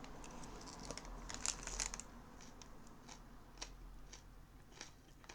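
Chewing a mouthful of salad: soft crisp crunches and small mouth clicks, busiest about one to two seconds in.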